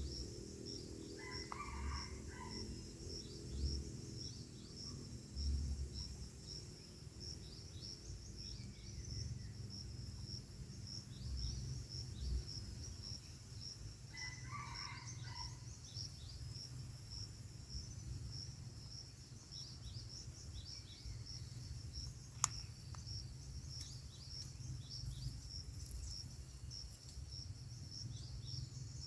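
Outdoor ambience of insects chirring: a steady, evenly pulsing high-pitched chirp throughout. Two short bird calls come about 1.5 seconds and 14 seconds in, and a single sharp click about 22 seconds in.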